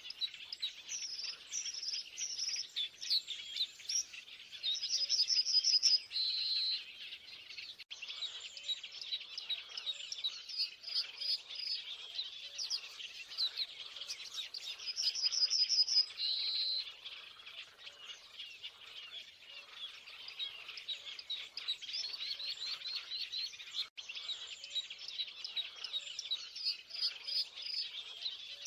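Many small birds chirping at once in a dense, continuous chorus. A louder rapid trill ending on a short held note stands out twice, about five seconds in and again about fifteen seconds in.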